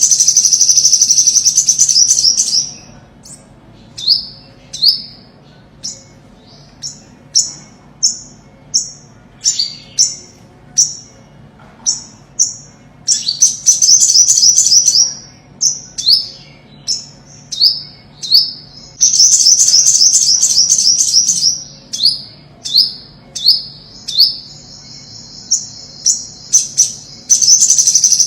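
Olive-backed sunbird singing: high, thin song in which several bursts of rapid trilling alternate with runs of short, sharp down-slurred notes, about one or two a second.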